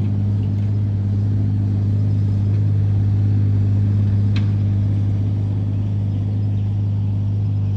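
Vehicle engine running steadily with a constant low hum that holds the same pitch throughout, and a faint click a little past the middle.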